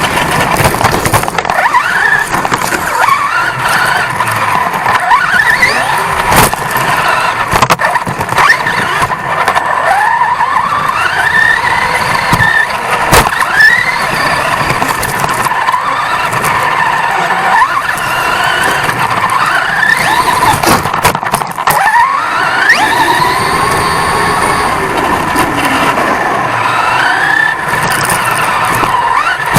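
Onboard sound of a 1/10-scale off-road RC truck racing. Its motor whine rises in pitch again and again as it accelerates, over constant rattling and sharp knocks from the truck bouncing over rough ground.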